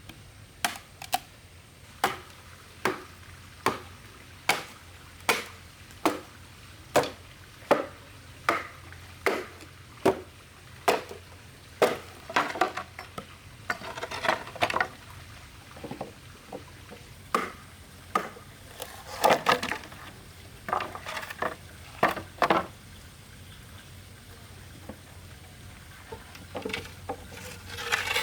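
Repeated sharp strikes on wood or bamboo, steady at about one a second for the first dozen seconds, then coming in irregular clusters.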